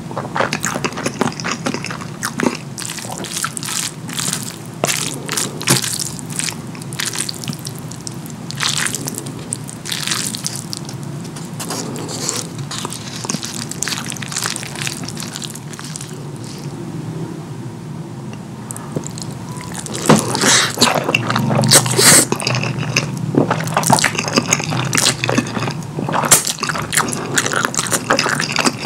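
Close-miked wet chewing and lip-smacking of saucy curry food, with many sharp sticky clicks. It gets louder and busier about twenty seconds in.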